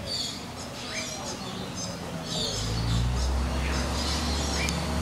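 Small birds chirping and twittering in quick, repeated high calls, with a low steady rumble coming in about halfway through.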